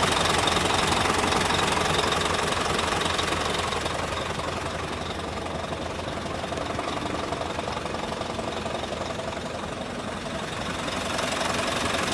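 Isuzu Giga heavy truck's diesel engine idling steadily. It grows quieter for several seconds in the middle, then louder again near the end.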